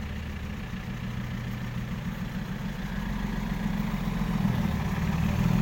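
Diesel engine of a six-wheel dump truck running at a low, steady note, growing louder toward the end.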